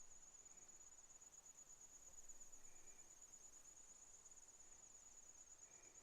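Near silence except for a faint, steady, high-pitched insect trill.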